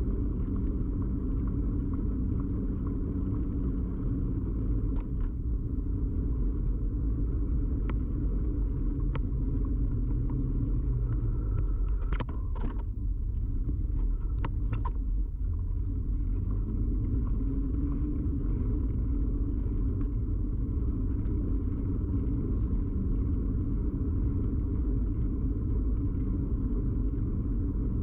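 Steady low rumble of a bicycle ride picked up by a camera mounted on the bike: tyre and frame vibration carried through the mount. A few sharp clicks or rattles come about halfway through.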